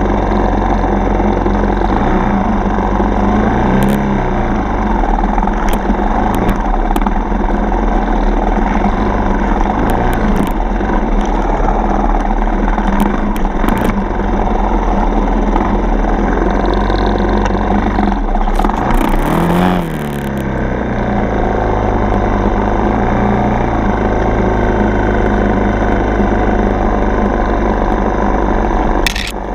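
Dirt bike engine running under way on a trail, its revs rising and falling with the throttle, with scattered knocks and clatter.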